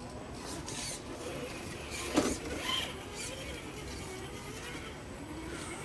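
RC rock crawler's small electric motor and drivetrain whining faintly, pitch wavering up and down with the throttle as it crawls, with one sharp knock about two seconds in.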